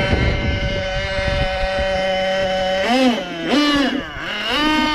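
Kyosho Inferno GT2 RC car's nitro engine running at a steady high pitch, then revving up and dropping back three times in quick succession near the end.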